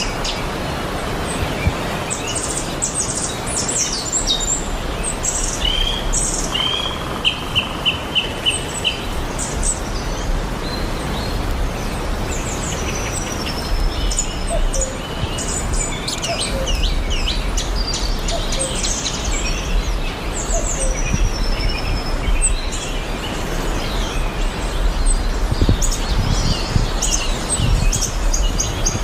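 Cockatiels chirping and calling: many short chirps and falling whistles, with a quick run of about seven repeated notes around a quarter of the way through, over a steady background hiss and low hum.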